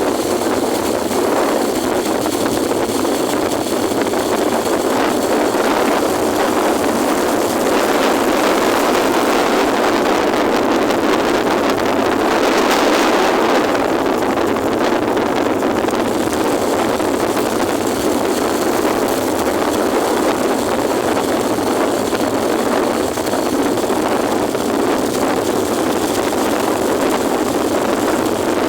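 Strong wind rushing steadily over the microphone of a moving motorcycle, with the engine running underneath, swelling a little about halfway.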